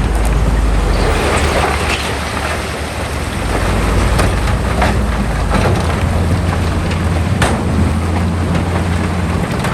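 Heavy diesel earthmoving machinery running steadily at a low, even pitch, with a rushing noise of spilling fill and a few sharp clanks.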